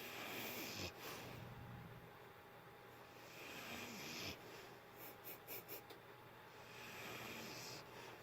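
Sleeping Staffordshire bull terrier snoring faintly: three long, slow breaths about three seconds apart, with a quick run of four short sniffs a little past the middle.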